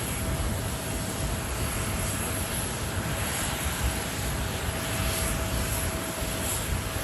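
Boeing 777-300ER's GE90 jet engines running steadily as the airliner lands, with a deep, uneven rumble of gusty wind on the microphone.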